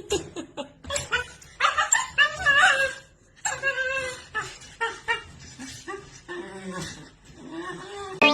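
A dog vocalizing in a series of short sounds that bend up and down in pitch, with brief pauses between them.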